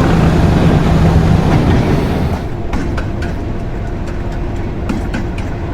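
English Electric 12CSVT V12 diesel engine of Class 37 locomotive D6700 running under power. About two seconds in its note falls away as power comes off, leaving the locomotive coasting, with the wheels clicking over rail joints several times.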